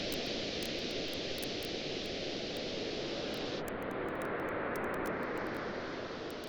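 Ocean waves washing on a beach mixed with a crackling campfire: a steady rushing hiss with faint, scattered pops. The sound starts to fade out near the end.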